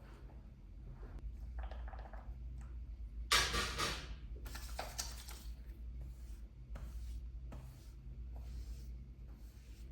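Long hair rustling as it is handled and styled, in a series of soft strokes, the loudest about a third of the way in, over a low steady hum.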